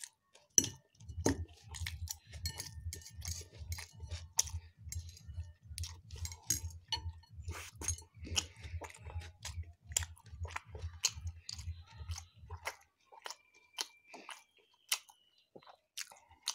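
Close-up chewing of a mouthful of Mughlai paratha: crunching and wet mouth clicks over a regular low thump with each chew, about two to three a second. The thumping stops about three-quarters of the way through, leaving only scattered clicks.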